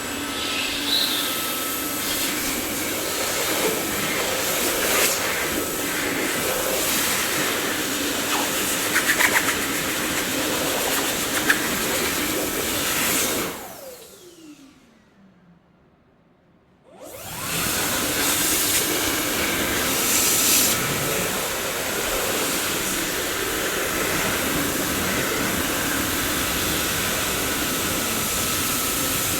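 Dyson vacuum cleaner motor running with a steady whooshing hiss, with a few brief rattles of debris being sucked up. About halfway through it switches off, its whine falling in pitch as it spins down to near silence, then switches back on and spins up to a steady run again.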